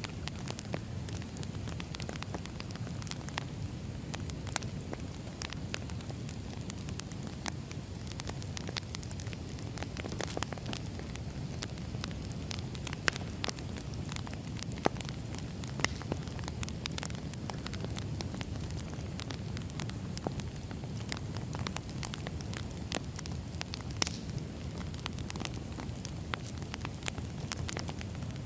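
A wood fire burning: a steady low rumble of flames with irregular sharp crackles and pops of burning logs, a few of them louder.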